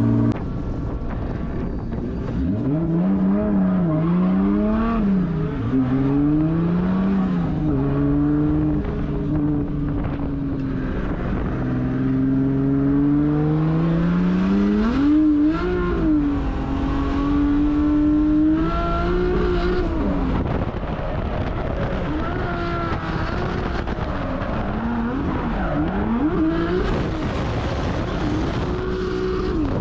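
Drift car engine revving hard through a run, its pitch climbing and dropping again and again as the throttle is worked, with some tyre noise.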